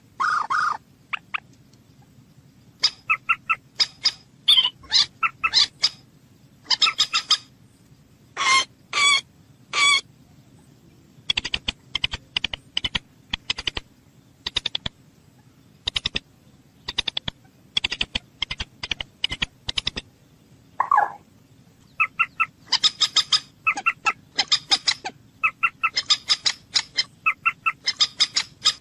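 A bird calling: runs of short, sharp, harsh notes repeated in bursts, with some fast clicking series and a few longer single notes in between.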